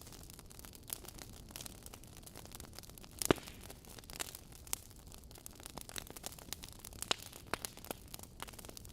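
Wood fire crackling in a fireplace: burning logs give a scatter of irregular snaps and pops over a soft hiss, with one much louder pop about a third of the way in.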